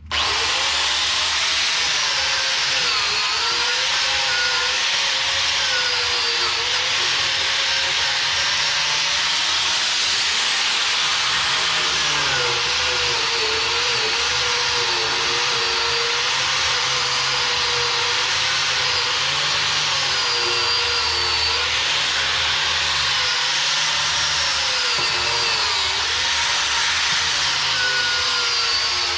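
Power wire wheel, most likely on an angle grinder, running steadily against steel while cleaning crud and rust off excavator bucket teeth and shanks to prepare them for welding. Its motor whine dips and recovers over and over as the wheel is pressed into the work.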